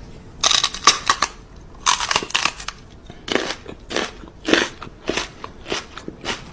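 Crunchy chewing: a pet biting and crunching something hard, a crunch roughly every half second to second.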